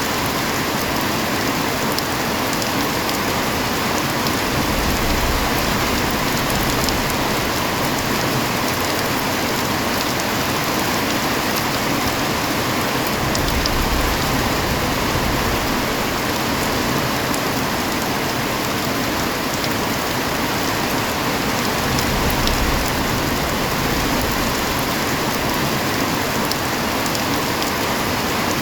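Heavy rain falling steadily, an even hiss with scattered sharp drop ticks. A low rumble swells briefly three times.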